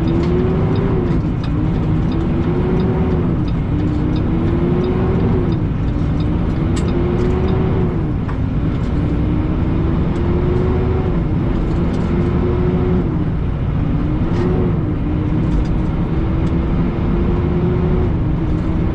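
Semi-truck's diesel engine heard from the cab, accelerating through the gears: the engine note climbs, then drops back at each upshift, about eight times in a row. A faint high whistle rises and falls with it over a steady low rumble.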